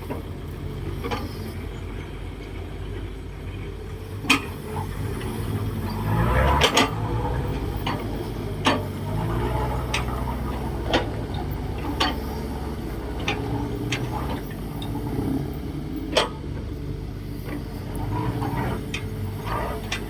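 Kobelco SK135SR excavator's diesel engine running, its pitch rising and falling with the load, with sharp metallic clanks every second or two.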